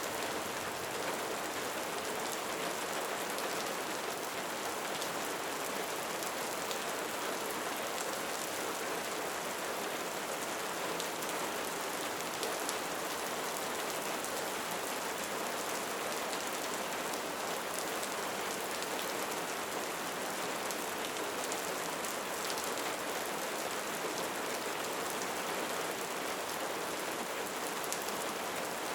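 Steady rain falling, an even wash of noise dotted with fine, crisp drop ticks, holding constant throughout.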